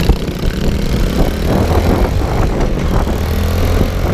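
Pit bike's 110cc four-stroke single engine running at a steady low pitch, under a rough rushing noise.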